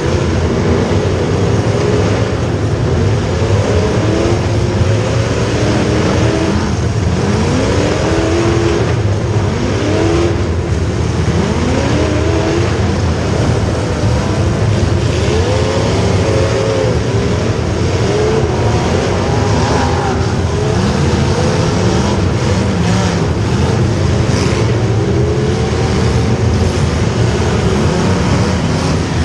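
Several car engines revving hard at once, their pitch repeatedly climbing and dropping back over a loud, continuous roar.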